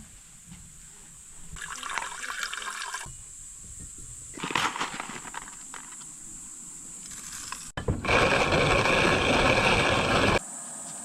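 Water running in a few bursts, the loudest a steady stretch of about two and a half seconds near the end that cuts off abruptly.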